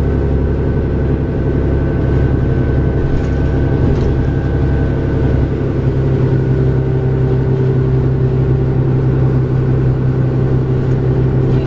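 Cummins ISL six-cylinder diesel of a 2006 New Flyer D40LF transit bus heard from on board, running steadily, with a steady higher whine joining about halfway through.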